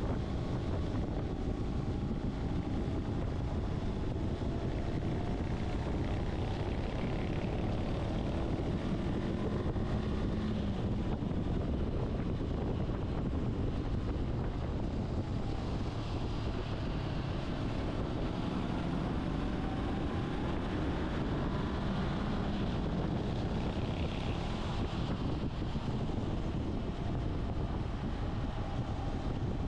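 Motorcycle riding at speed: the engine runs under dense wind rush over the microphone, and its pitch drifts up and down with the throttle.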